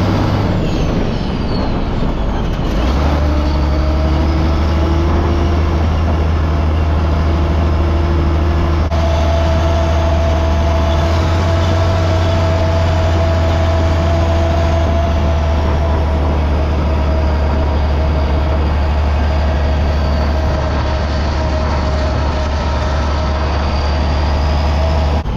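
Tractor engine running steadily, a low hum with a steady whine above it; the engine note steps slightly about three seconds in.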